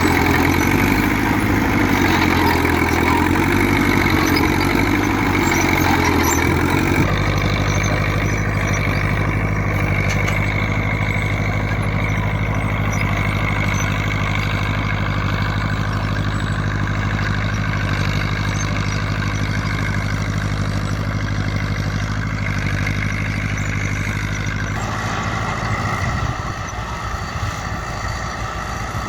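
Fiat 70C crawler tractor's diesel engine running steadily. Its note changes about seven seconds in and again near the end.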